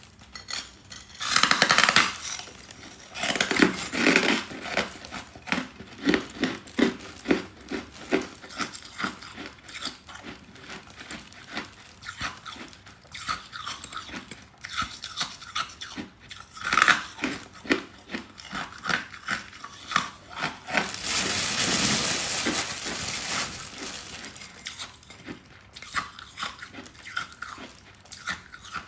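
Close-miked biting and chewing of hard freezer-frost chunks: irregular crisp crunches, with a few louder bites and a longer stretch of continuous crunching about two-thirds of the way through.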